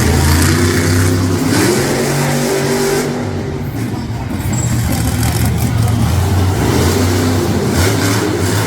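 Mega Wrex monster truck's engine revving hard, its pitch rising and falling as the throttle is worked.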